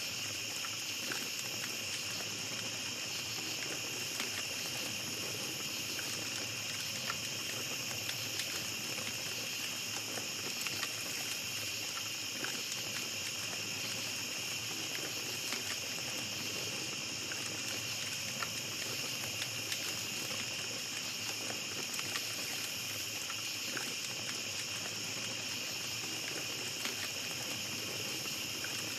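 Small campfire crackling with scattered short pops, over a steady high-pitched chorus of night insects.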